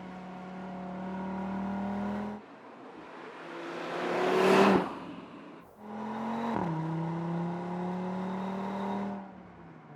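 Audi RS3's five-cylinder engine and sport exhaust, in clips cut together: steady running that cuts off abruptly, then a pass-by that swells to the loudest point about four and a half seconds in and drops away suddenly, then steady running again with a sudden drop in pitch about six and a half seconds in.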